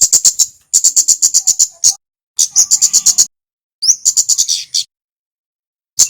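Male kemade flowerpecker song: four rapid bursts of sharp, high ticking notes, about eight a second, each burst lasting around a second with short pauses between, some opening with a quick upward slurred note.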